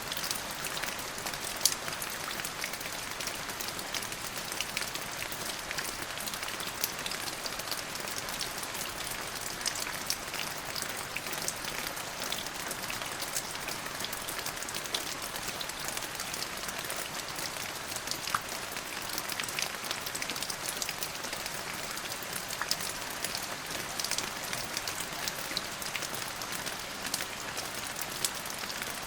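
Steady rain falling, an even hiss dotted with many sharp individual drop hits.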